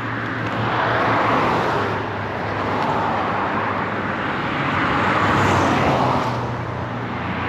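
Road traffic on a highway: vehicles passing one after another, the tyre and engine noise swelling and fading about three times.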